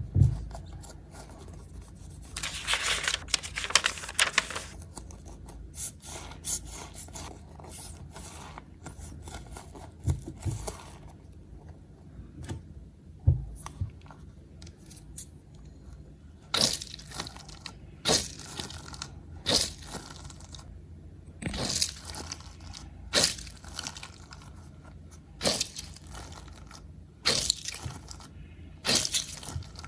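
Hands handling slime and small toys, making crackly scraping and crunching sounds. After a longer stretch near the start, the sounds come in short strokes every second or two, with a few dull knocks.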